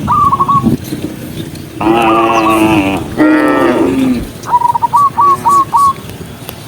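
Cattle mooing: two long calls back to back, about two and three seconds in. A quick run of short, high chirping calls comes near the start and again after the moos.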